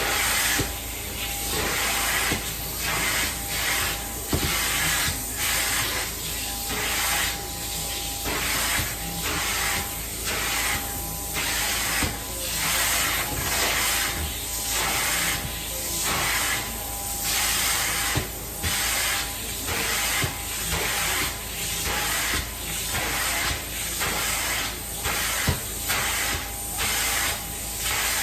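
Carpet-cleaning hot-water extraction wand working in repeated strokes: a hiss of spray and suction about once a second, over the steady hum of the extraction machine.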